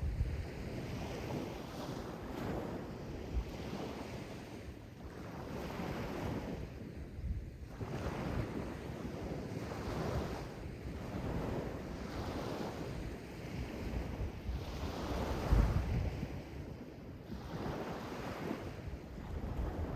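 Sea waves washing in and out in repeated surges, with wind buffeting the microphone in low rumbles.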